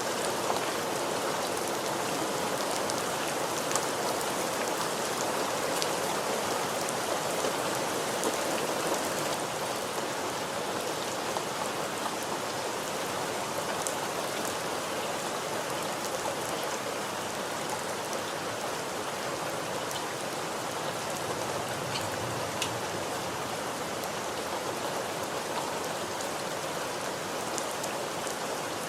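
Steady rain falling, an even hiss of many drops with scattered sharper drop ticks.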